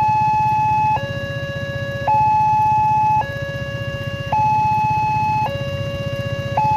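Level-crossing warning alarm sounding a steady two-tone hi-lo call, switching between a higher and a lower tone about every second. A low engine rumble runs underneath.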